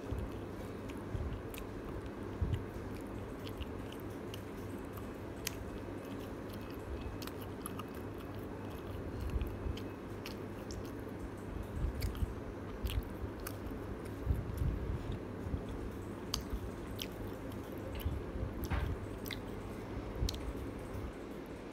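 Close-up eating sounds of spicy chicken drumlets being bitten and chewed: many small sharp clicks and wet mouth sounds over a steady low hum.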